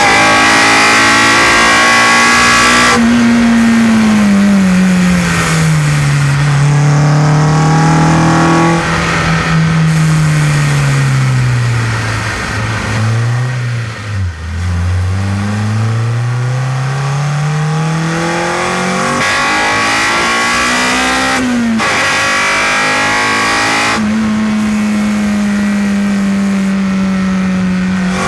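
Honda Civic Type R EP3's four-cylinder VTEC engine running through a well-baffled exhaust. The revs fall slowly to a low point a little before halfway, then climb steadily again. The sound breaks off sharply a bit past two-thirds through, then holds at high revs near the end.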